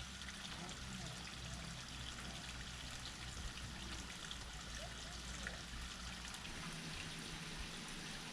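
Steady noise of running water, with a few faint bird chirps and a low hum that stops near the end.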